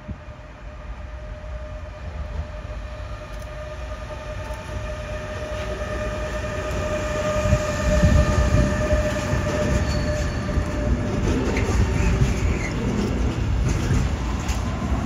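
Freight train approaching and passing: a steady whine from the locomotive grows louder over about eight seconds, then gives way to the heavy rumble and clatter of the wagons on the rails.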